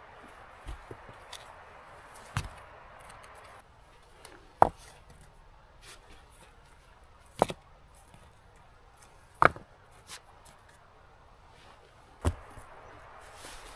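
Wood being chopped by hand: five sharp strikes a couple of seconds apart, over a faint hiss that stops a few seconds in.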